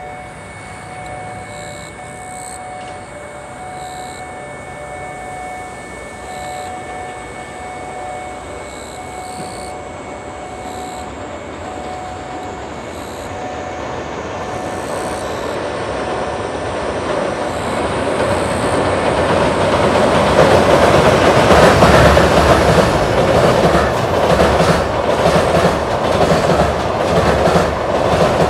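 Freight train of an EH500 electric locomotive and container wagons crossing a steel railway bridge: a rumble that grows steadily louder as it approaches and becomes loud about two-thirds of the way through. Near the end the wheels clatter over rail joints in a rhythmic clickety-clack.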